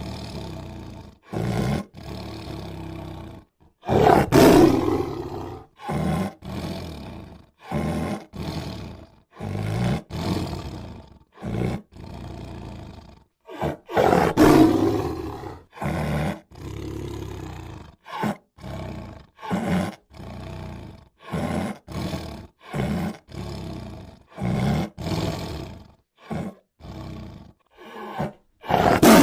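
Tiger roaring and growling in a string of separate calls cut one after another with short silent gaps. The two longest and loudest roars come about four and fourteen seconds in, with shorter growls between them.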